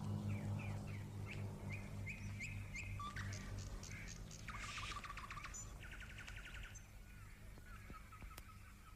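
Birds chirping: a string of short repeated chirps, then two quick trills in the middle, over a low steady hum.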